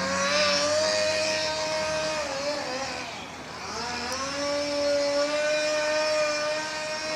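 Chainsaw engine running at high revs. It drops off about two and a half seconds in, revs back up a second later and holds steady.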